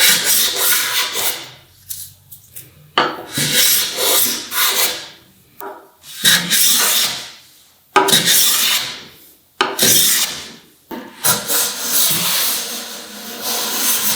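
A hand tool worked over wood in repeated strokes, each a scraping rub of one to two seconds, about six in all with short pauses between them.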